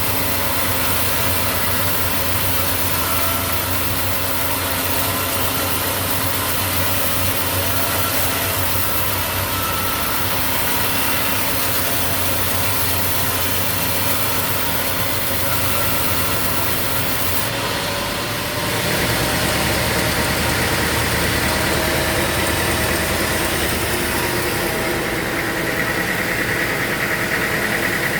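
Sawmill machinery running: a steady engine hum under mechanical noise. It gets louder about two-thirds of the way through, and a high whine joins near the end.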